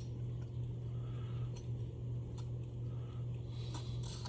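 Steady low hum, with a few faint, light clicks of small metal motor parts being handled and fitted.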